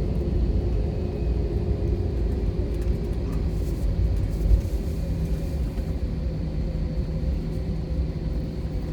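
Airbus A321 cabin noise on the ground just after landing: a steady low rumble with engine hum. A steady hum tone comes in about halfway through.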